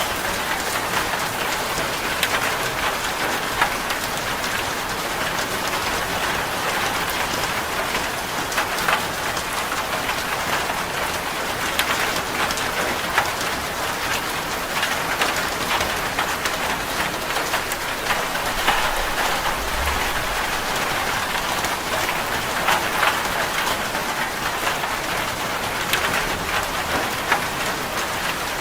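Rain falling steadily on a corrugated zinc roof: a constant hiss with sharp drop impacts ticking through it.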